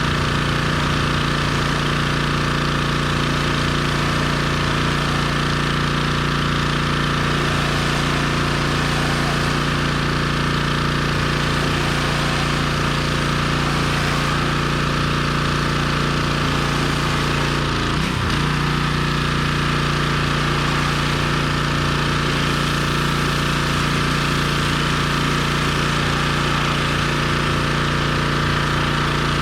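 Gas engine of a pressure washer running steadily under load, with a brief dip in pitch about two-thirds of the way through.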